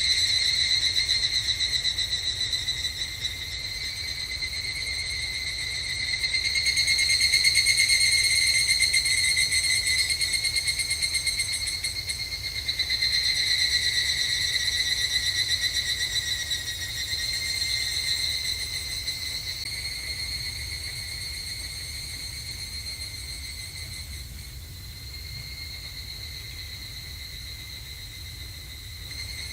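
Evening cicadas (higurashi, Tanna japonensis) calling in chorus: rapid, high trilling calls that swell and fade in overlapping waves, one rising as another dies away, and thinning out toward the end.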